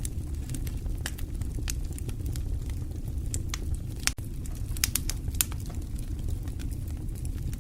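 Wood fire burning in a fireplace, crackling with frequent sharp pops and snaps over a steady low rumble, with a cluster of louder pops about five seconds in.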